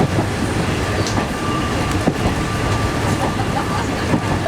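Passenger train running along the track, heard from inside a carriage: a steady rumble with a few sharp clicks from the wheels, about every two seconds.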